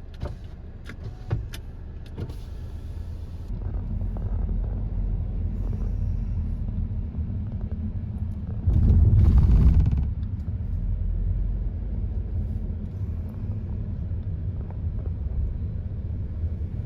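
Car driving: a steady low rumble of engine and road noise, with a few sharp clicks near the start and a louder swell of rumble for about a second midway.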